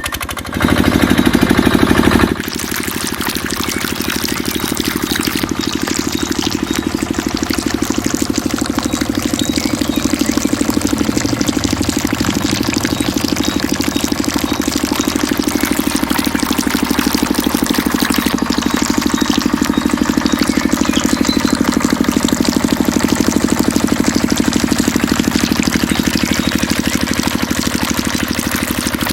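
Small engine of a miniature water pump running steadily with a fast, even beat. It is louder for a moment about half a second to two seconds in.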